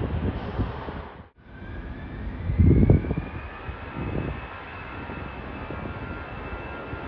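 Jet airliner's engines: a whine rising in pitch and then holding steady, over a low rumble that is loudest about three seconds in, after a brief dropout about a second in.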